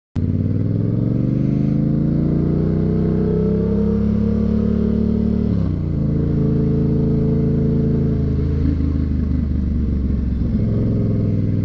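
Motorcycle engine under way, its pitch climbing as it accelerates, then dropping with an upshift about six seconds in and running on steadily in the higher gear.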